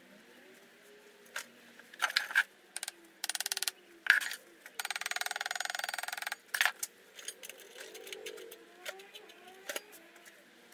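Workshop handling noises: scattered clicks and knocks, with two bursts of rapid even ticking, a short one about three seconds in and a longer one lasting nearly two seconds about five seconds in.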